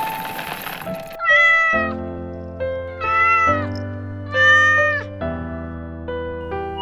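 A cat meowing three times, each meow a long call that rises and falls, over soft, slow piano music. A hiss of noise cuts off about a second in.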